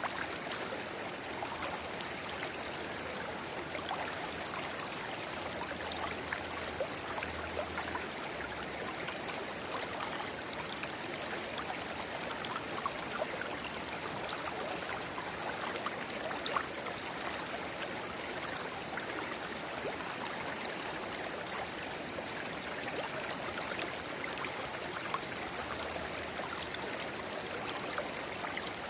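A small river babbling where a narrow spring-fed channel pours into it: a continuous, even rush of water with small gurgles and splashes scattered through it.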